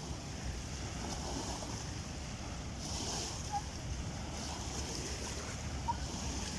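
Steady rumble and hiss of a passenger train running past on the rails, the hiss swelling and fading every second or so.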